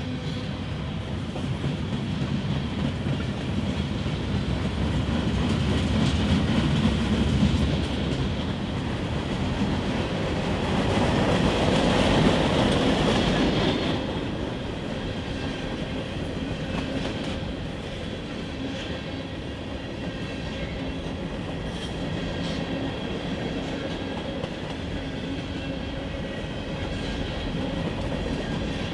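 Freight train cars rolling past on the rails in a steady, continuous rumble that swells louder for a few seconds near the middle.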